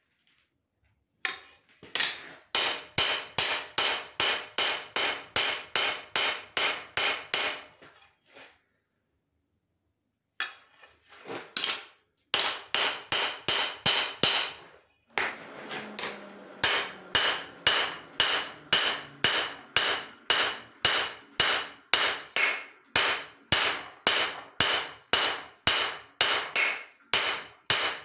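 Hand hammer striking hot leaf-spring steel on an anvil, forging a cleaver blade: steady ringing blows about two a second, in three runs with short pauses between them.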